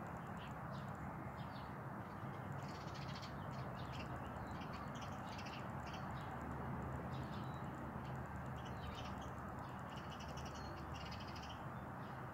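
Birds calling over and over in short, high calls, some in quick series, over a steady low background rumble.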